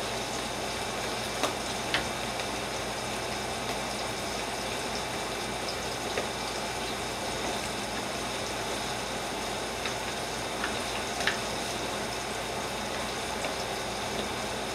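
Steady sizzle of food frying in oil, with a few light clicks of a fork against a plastic tub as boiled sweet potato is mashed.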